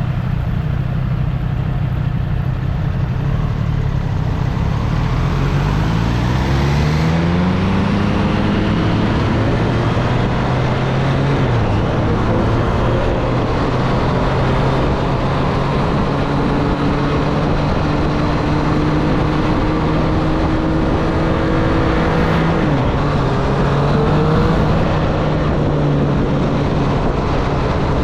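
2024 Triumph Street Triple's three-cylinder engine, heard from the rider's seat. It runs steadily at first, then accelerates with its pitch rising a few seconds in, eases off, and holds a steady note. It dips near the end and then picks up again. Wind and road noise run underneath.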